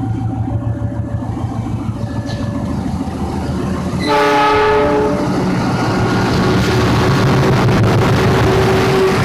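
A train's low rumble with a repeating two-note tone over it, then about four seconds in a train horn sounds for about a second. After the horn, the louder noise of a train running past builds up.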